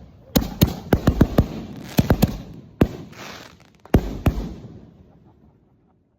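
Fireworks going off: a rapid, irregular string of sharp bangs, about a dozen in four seconds, each with an echoing tail, then fading away.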